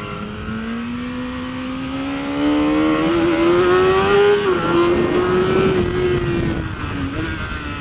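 2019 BMW S1000RR superbike's inline-four engine accelerating hard out of a corner, heard onboard. The revs climb steadily, drop at an upshift about halfway through, then hold and ease off near the end.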